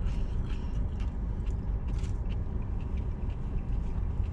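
Mouth sounds of someone chewing a bite of bacon cheeseburger: short, soft clicks and smacks scattered through, over a steady low rumble.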